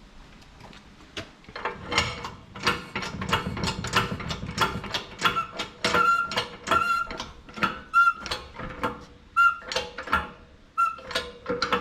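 Hand-wound press forcing a worn bearing out of a seed-drill disc housing: a loud run of sharp clicks and creaking squeals, about one or two a second, as the bearing is driven out.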